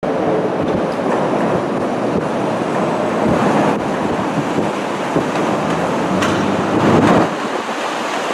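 Chicago 'L' rapid-transit train running past, a steady loud noise of wheels and cars on the track with some wind on the microphone; the deepest part of the sound drops away about seven seconds in.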